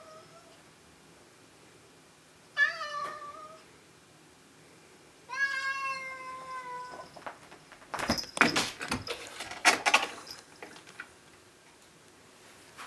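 Domestic cat meowing twice, the second meow longer and falling in pitch, followed by a couple of seconds of loud knocks and scraping.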